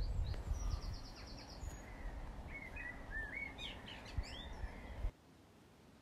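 Small birds singing and calling over a low rumble: a rapid trill of repeated notes about half a second in, then a run of short chirps and rising whistles about three seconds in. About five seconds in it cuts off to quiet room tone.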